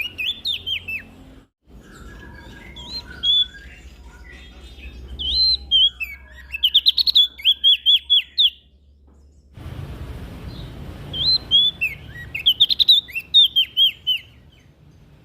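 Prenjak daun (leaf warbler) singing: fast runs of short, high, sliding chirps in three bursts with brief pauses between.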